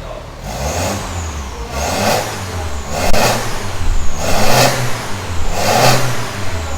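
BMW F30 engine revved in five quick blips, a little over a second apart, over a low idle, heard through a full stainless-steel exhaust with a custom downpipe.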